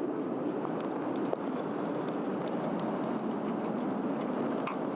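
Swedish torch, a split cedar log, burning: a steady rushing of flame with a few faint, scattered crackles.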